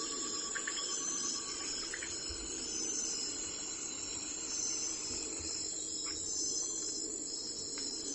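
Insects chirping steadily in a high, pulsing chorus, with a rapid pulsed trill in the first half and a few brief, sharp chirps.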